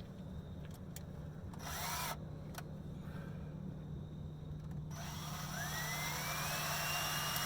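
Power drill running in two bursts: a short one about two seconds in, then a longer run from about five seconds whose pitch rises as the motor spins up and then holds steady.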